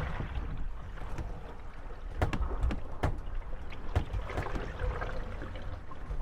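Moored gondolas rocking on the waves, their wooden hulls knocking and creaking against one another over lapping water, with several sharp knocks between about two and four seconds in.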